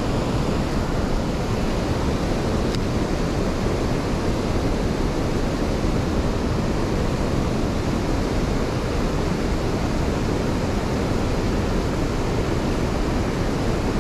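Steady rushing noise of wind and water, even and unbroken throughout.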